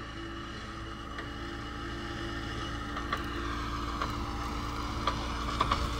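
Off-road 4x4's engine idling steadily, a low even hum while the truck sits stuck in a mud-filled trench, with a few light clicks over the second half.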